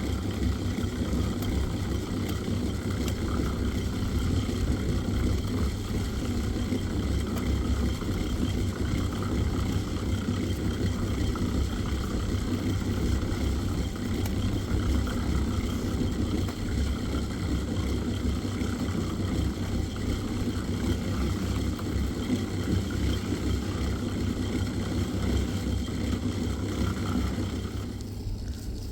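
An engine running steadily, a low rumble that drops away near the end.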